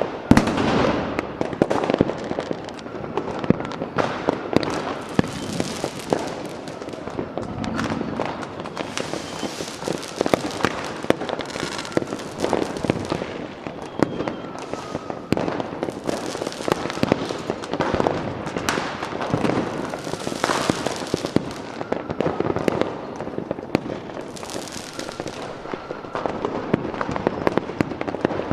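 Fireworks going off in a continuous barrage: a dense run of sharp bangs and pops, several a second, overlapping with stretches of hiss.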